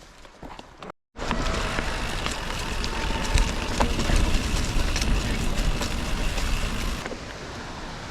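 Wind buffeting the microphone, with a deep rumble and scattered clicks and rattles from the bike, loud from about a second in and easing off near the end. It follows a brief cut to silence.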